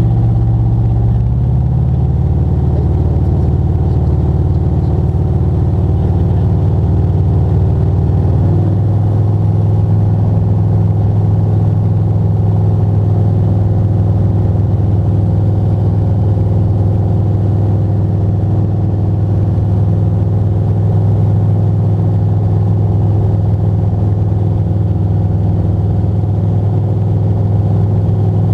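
Motor glider's piston engine and propeller running steadily under power, with a low, even drone. The engine note shifts twice, about a second and a half in and again about eight seconds in, as the power setting changes.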